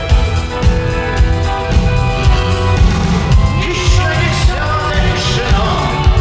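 A rock band playing a song with drums keeping a steady beat, held instrument notes and a voice singing.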